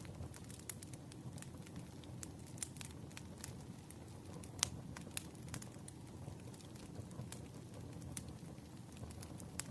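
Wood fire burning with a steady low rumble and irregular sharp crackles and pops, one louder pop a little past the middle.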